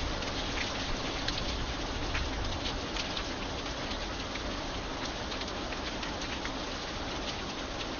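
Light rain falling steadily, with single drops ticking sharply here and there over the even hiss and a low rumble underneath.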